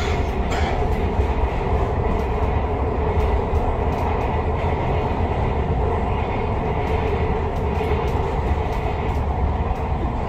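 Metro rail car running on its track, heard from inside the car: a steady low rumble of wheels on rail with a constant hum, and faint scattered ticks.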